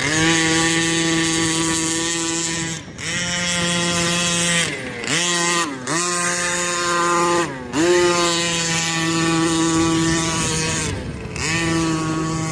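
Scott Finlay 34cc two-stroke gas engine of a Losi Monster Truck XL RC truck running at high revs, with the throttle lifted and reapplied several times, so the engine note dips and climbs back about three, five to six, seven and a half and eleven seconds in.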